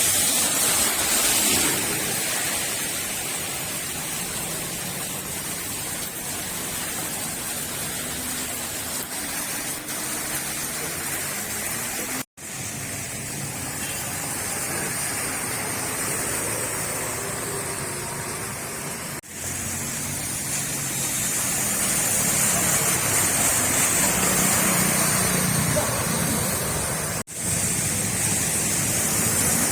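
Steady rain falling, a constant hiss, broken by three brief dropouts where the footage cuts.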